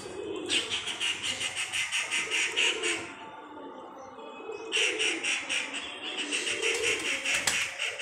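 Domestic pigeons cooing low, over which a bird's fast pulsing call, about eight pulses a second, runs twice for about two and a half seconds each.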